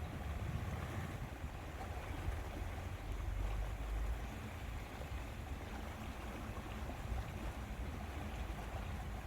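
Lakeside ambience: a steady wash of lake water, with wind buffeting the microphone in an uneven low rumble.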